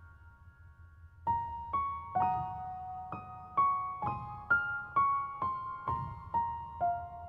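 Background music: a slow, gentle piano melody of single struck notes, each ringing out and fading, coming about twice a second after a near-quiet first second.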